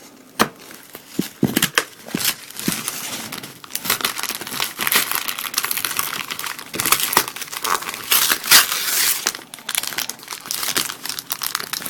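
Stiff plastic blister packaging crinkling and crackling as it is pried and peeled open by hand, with irregular snaps and rustles. The card is glued in, so the packaging resists.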